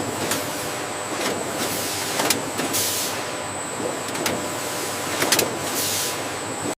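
Food-processing machinery running steadily, with a faint high whine, irregular clacks and two short hisses, about three and six seconds in.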